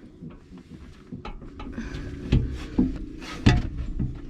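Several scattered knocks and light rubbing as a metal shelf is handled and held up against a vehicle's interior bodywork, the loudest knock about three and a half seconds in.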